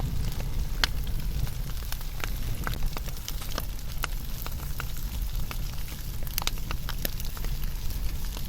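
Wood fire burning, with sharp crackles and pops at irregular intervals over a steady low rumble of flame.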